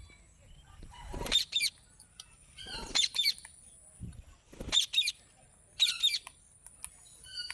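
Pet green parakeet giving a series of short, sharp calls, four or five of them a second or two apart.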